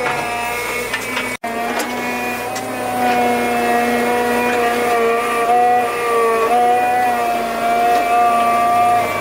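A small motor or engine runs steadily, its pitch shifting up and down as if under changing load, broken by a brief cut about a second and a half in.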